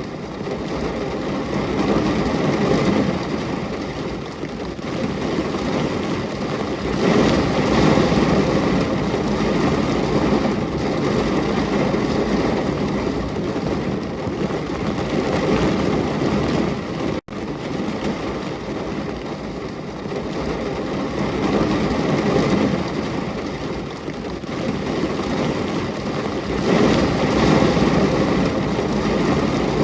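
Steady rain, loud and unbroken, swelling and easing every few seconds. A sudden split-second dropout comes a little past halfway.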